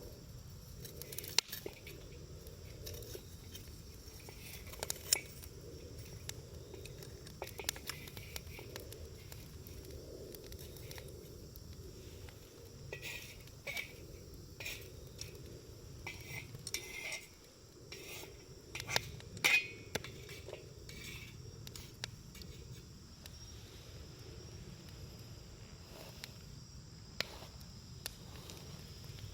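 Wood campfire burning with irregular sharp crackles and pops, busiest in the middle stretch, over a low steady rush of flame. A steady high chirring of crickets runs underneath.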